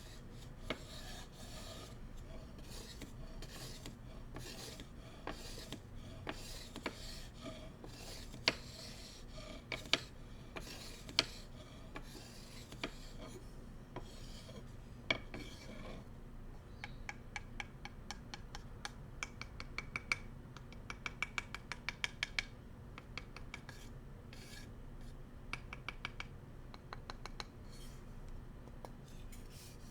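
Bamboo cooking utensils being rubbed and scratched as ASMR triggers: rasping strokes with occasional sharp taps, then from about halfway, fast runs of small ticks.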